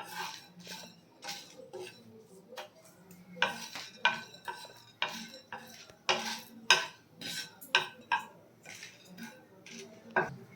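A spatula stirring and scraping whole spices as they dry-roast on a tawa, with irregular scrapes and taps of the spatula against the pan.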